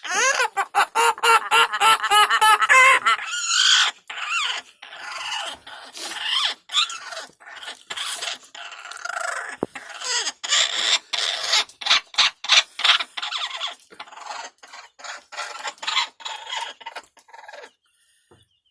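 Monk parakeet chattering and squawking non-stop while it performs a mating display. The first few seconds are a fast warbling trill, followed by harsher rapid squawks and clicks that stop abruptly near the end.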